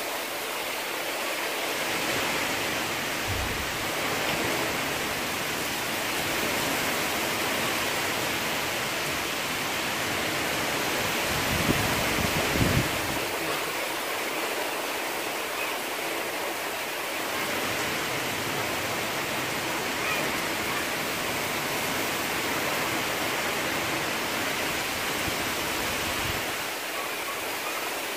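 Heavy rain pouring down in a steady, dense hiss. Gusts of wind bump against the microphone as low rumbles, briefly about three seconds in and more strongly around twelve seconds in.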